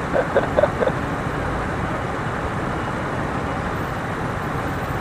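Steady wind and road noise of a scooter ride in traffic, with a few short pitched blips in the first second.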